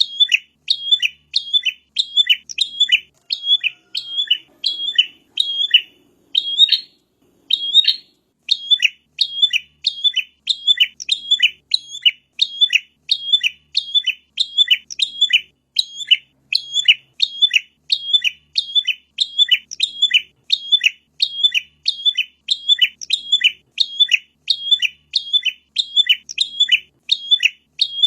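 Prinia (prenjak) calling: a fast, even run of sharp, high chirps, about two a second, with a brief break about eight seconds in.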